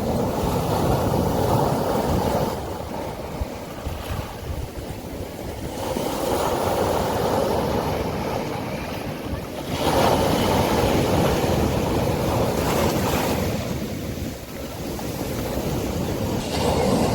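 Sea waves breaking and washing up a beach, a rushing noise that swells and ebbs every few seconds, with a sharp surge about ten seconds in.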